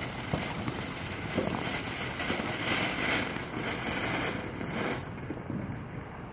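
Ground fountain firework spraying sparks with a steady rushing hiss that swells to its loudest midway and dies down about five seconds in as it burns out.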